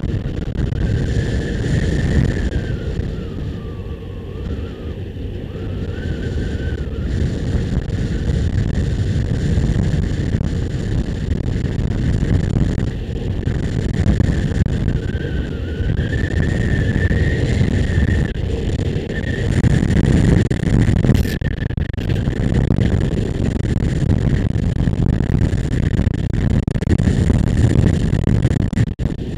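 Motorcycle running along the road, heard from on board, with wind buffeting the microphone and a high whine that wavers up and down in pitch.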